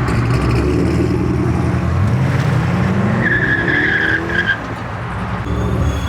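A car accelerating away, its engine note rising as it revs, with a brief tire squeal about three seconds in.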